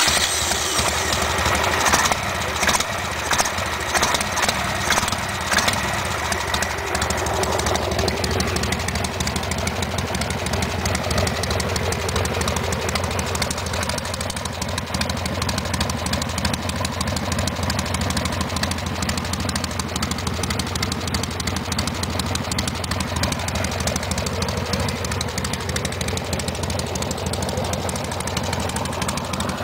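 An engine running steadily, with a run of sharp knocks in the first few seconds.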